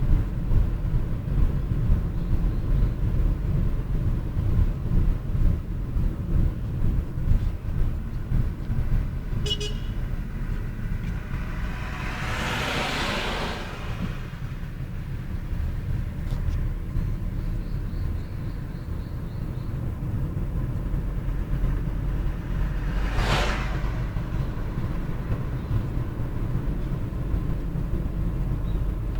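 Steady low road rumble, with two vehicles passing by, one about twelve seconds in and another about twenty-three seconds in, each swelling and fading. A short high beep sounds near ten seconds in.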